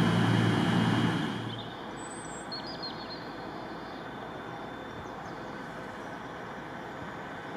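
A train at a railway station, its loud, steady low hum falling away about a second and a half in, leaving a quieter steady background with a few brief high squeaks.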